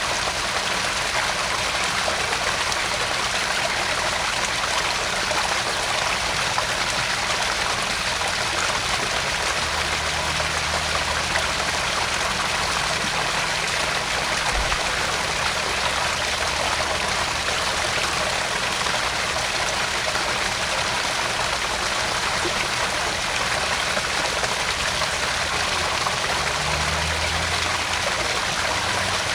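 Garden pond waterfall: water spilling and splashing steadily into the pond in an even, unbroken rush.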